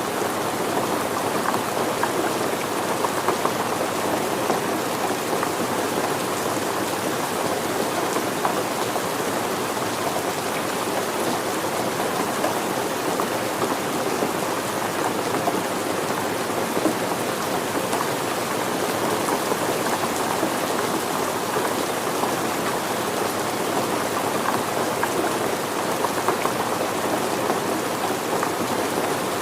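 Steady rain falling, an even rush of many drops with scattered louder single drops ticking through it.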